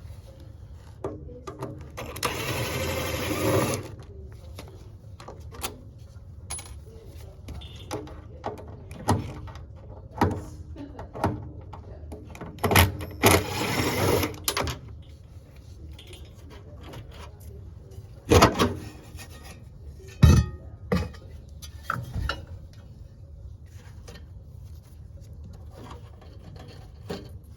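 Hand tools and metal parts clicking and knocking on a gas water heater's burner and pilot hardware, with two longer stretches of rapid rattling, each about a second and a half, one near the start and one about halfway through.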